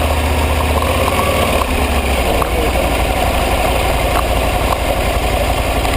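Aprilia ETV 1000 Caponord's V-twin engine idling steadily with a low, even throb.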